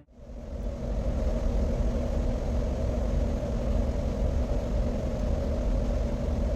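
Steady low machinery rumble with a constant hum, coming up within the first second and holding even, typical of the running plant machinery in an underground hydroelectric station.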